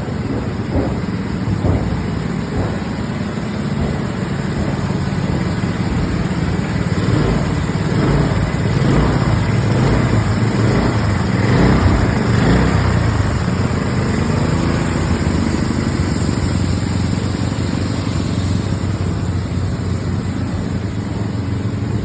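An engine running steadily, with scattered knocks and rattles that are busiest midway through.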